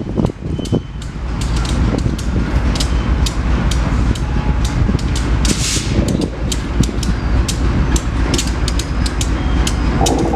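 Passing train: a steady low rumble with many sharp clicks and clacks.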